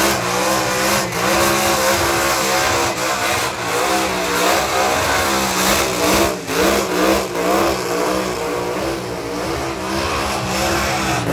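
A burnout ute's engine revving hard and holding high revs, the pitch wavering up and down, over a steady hiss from its rear tyres spinning on the bitumen.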